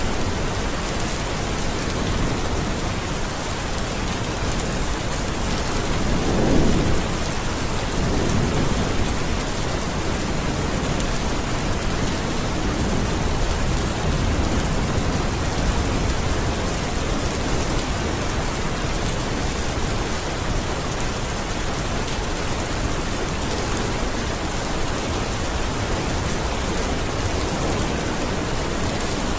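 Steady rain falling in a continuous hiss, with a low rumble of thunder swelling about six seconds in and fading over the next few seconds.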